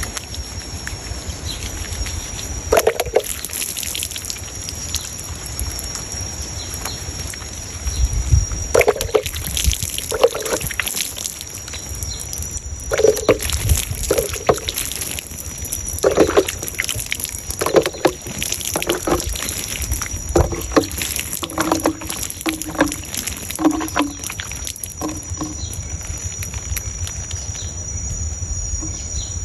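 Water sloshing and splashing in short, irregular bursts over a steady high-pitched hum.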